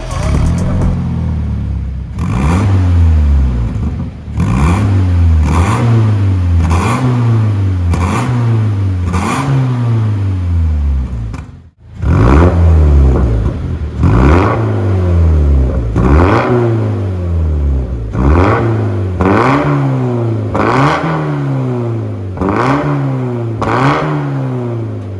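Toyota 86's 2.0 flat-four boxer engine blipped repeatedly through an MS-R valved cat-back exhaust, about one quick rev a second, each rising sharply and falling back. The run breaks off briefly near the middle, then the blips carry on.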